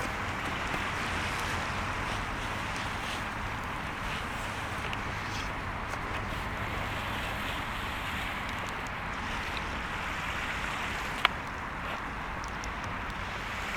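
Steady wash of sea surf with wind noise on the microphone, a faint scatter of small ticks, and one sharp click about eleven seconds in.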